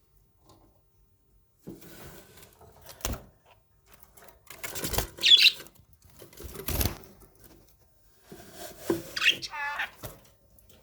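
Small pet parrot giving a few short chirps, mixed with clicks and knocks, in scattered bursts of about a second each.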